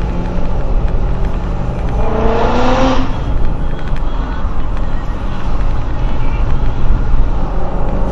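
Truck engine and road noise from the driver's seat, a steady low drone while driving on the highway. About two seconds in, a brief louder rushing sound with a faint rising tone passes.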